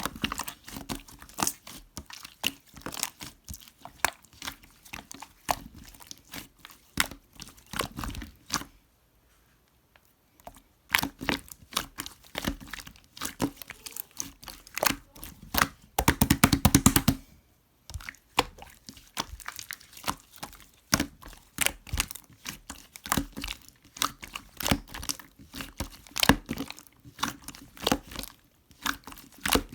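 Close-up handling of crinkly material such as paper, plastic or tape: irregular crinkling, tearing and tapping sounds, pausing briefly about a third of the way in, with a dense run of rapid crackles a little past the middle.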